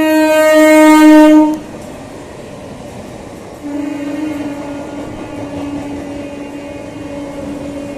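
MEMU train horn: one loud blast of about a second and a half, then the running noise of the train passing through the station without stopping. About four seconds in, a second, quieter horn note starts and is held on.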